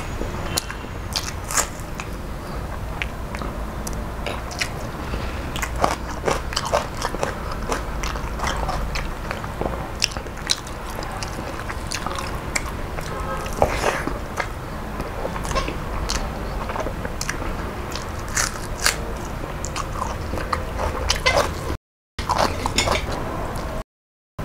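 Close-up eating: food being chewed and crunched in the mouth, with many small sharp clicks and crackles. The sound cuts out twice briefly near the end.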